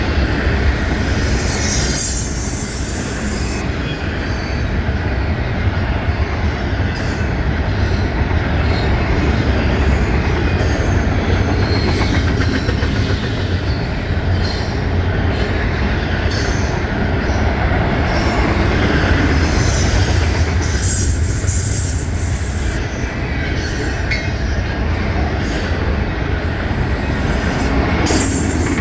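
Norfolk Southern freight train cars rolling past: a steady, loud rumble and rattle of wheels on rail. A high-pitched wheel squeal rises about two seconds in, again around twenty seconds in, and once more near the end.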